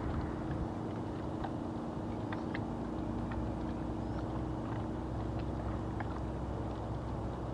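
Small waves lapping and splashing at the water's edge in the wind, with light scattered ticks of water. Under it runs a steady low motor hum, a little stronger after the first couple of seconds.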